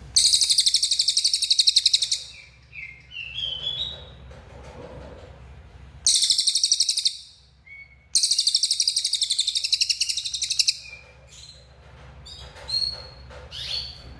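A cililin bird singing in full voice. Three long, loud, buzzy rattling trills, the last one longest, are separated by short, rising whistled notes.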